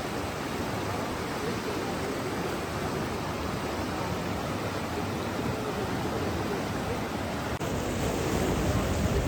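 Steady rushing water, an even hiss with no distinct splashes. About three-quarters of the way through it switches abruptly to a louder, fuller rush with more low rumble.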